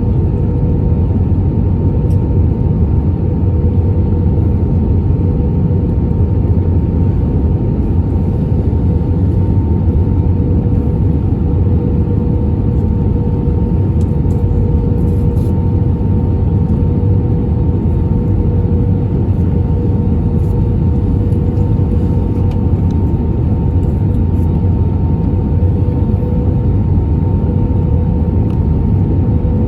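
Airbus A320neo cabin noise in flight: a steady loud rumble of the engines and airflow, with a thin steady whine held throughout.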